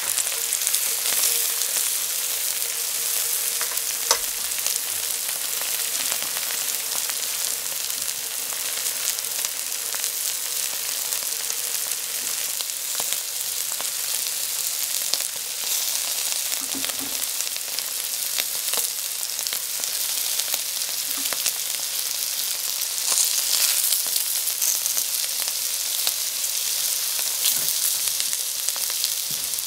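Oil sizzling steadily around baby potatoes and carrot pieces frying in a stainless steel pot, with a few light clicks scattered through it.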